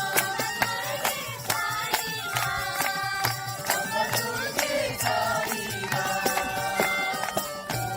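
Group singing a devotional bhajan, with sharp percussive strikes keeping a steady beat of about two to three a second.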